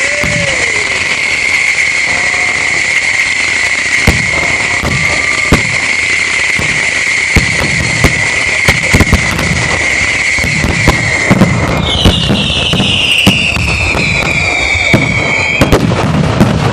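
Fireworks going off in a loud, continuous display: a steady whistling shriek over dense crackling and many sharp bangs. About twelve seconds in, the whistle switches to a higher pitch that slowly falls. The whole display cuts off abruptly at the very end.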